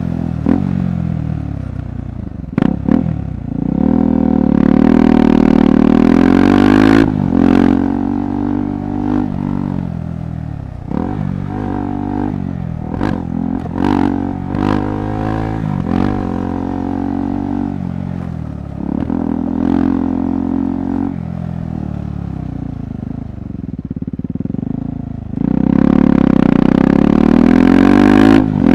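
KTM 390 Adventure's single-cylinder engine going on and off the throttle, its pitch rising and falling, with strong pulls about four seconds in and again near the end. Sharp knocks and clatter come through in between.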